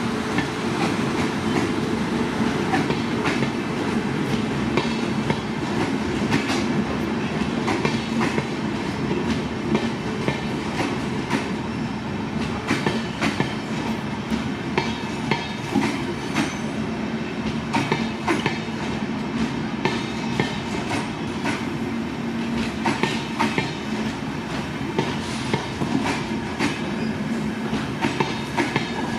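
Passenger train passing close by: a steady rumble of wheels on rail, with frequent sharp clicks as the wheels clatter over rail joints.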